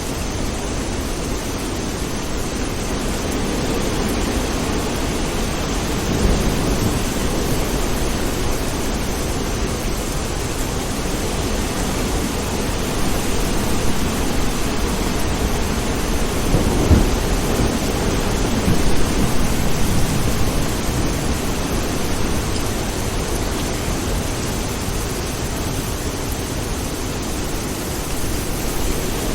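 Steady rain with rolling thunder. The rumbles swell about six seconds in and again just past halfway, where a sharper crack is the loudest moment.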